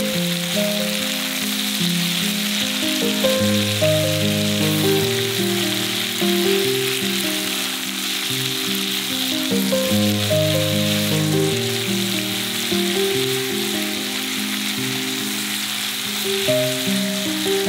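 Food frying in oil in a pan, with a steady sizzle under background music playing a slow melody of held notes.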